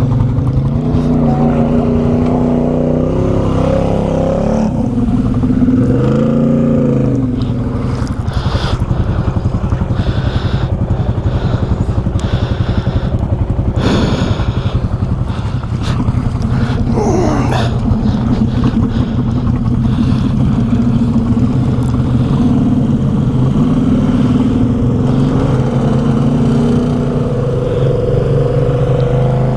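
ATV engine running and revving up and down in a deep creek crossing, its pitch rising and falling several times, with scattered knocks and clatter. The rider believes water has got into the clutch.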